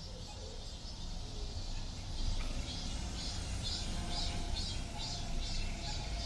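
Insects chirping in a regular pulse, about three chirps a second, starting a couple of seconds in, over a steady low rumble of city traffic.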